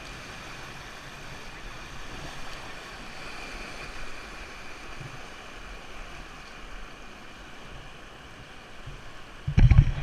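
River water rushing over rapids as a steady, even hiss. Shortly before the end, a sudden much louder low sound breaks in.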